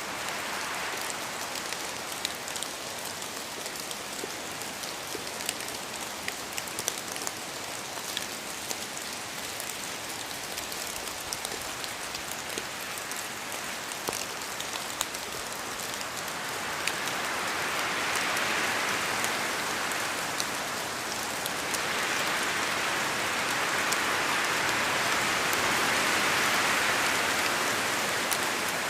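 Steady rain falling in a forest, with many individual drops ticking. The rain hisses throughout, and it swells louder twice, once past halfway and again through most of the end, as gusts of wind sweep through the trees.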